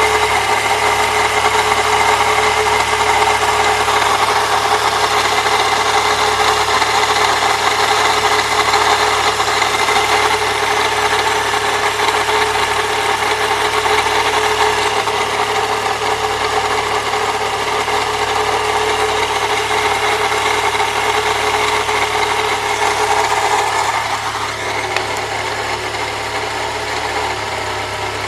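The 1998 Saturn SL2's DOHC engine idling with a steady grinding noise from the accessory belt drive. Replacing the idler and tensioner pulleys has not cured the noise, and it goes away when the engine runs without the belt. The grinding eases a little near the end.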